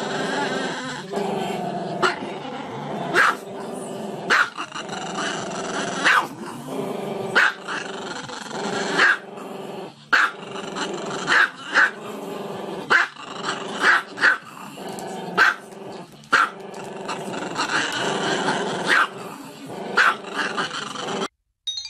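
Small black-and-tan dog vocalising continuously with its muzzle raised, a drawn-out sound broken by sharp barks about once a second. It cuts off abruptly near the end.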